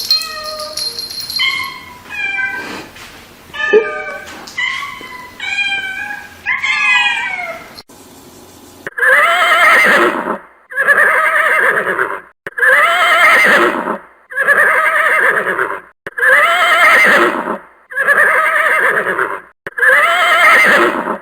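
A run of short, varied animal calls, then from about nine seconds in one loud call of just over a second, repeated seven times at even spacing like a loop.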